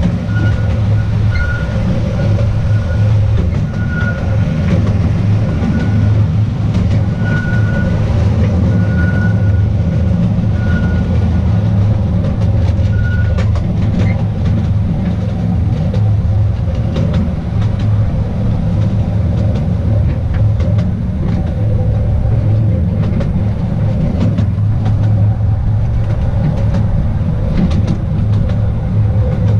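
Narrow-gauge tourist train of the Petit train d'Artouste running along the track: a steady low rumble with the rattle and clicking of wheels on rails. A thin high squeal comes and goes over the first half.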